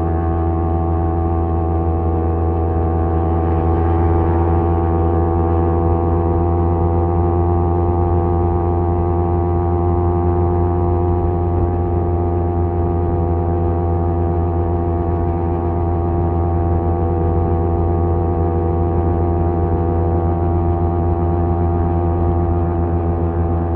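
Kawasaki Z250 parallel-twin engine running through an aftermarket SeaPro muffler, holding a steady note at cruising speed.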